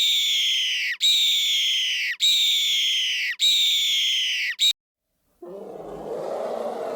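A bird of prey screaming: four long, harsh calls one after another, each falling in pitch, cut off abruptly just before five seconds in. After a brief silence, a low buzzing starts.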